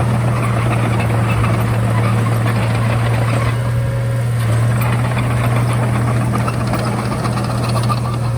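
Komatsu D31A bulldozer's diesel engine running steadily with a deep, even drone.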